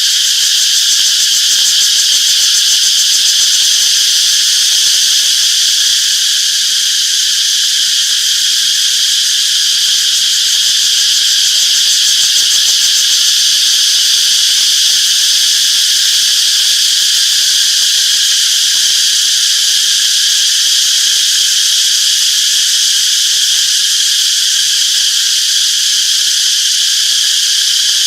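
Chorus of cicadas buzzing loudly and steadily, a continuous high-pitched drone that never breaks.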